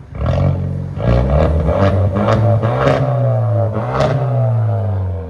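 2017 Kia Optima SXL's 2.0-litre turbocharged four-cylinder revved through a straight-piped exhaust, with resonator and rear mufflers deleted and only the catalytic converter left. A quick blip right at the start, then revs held up with several short sharp cracks, and the pitch falls back toward idle near the end.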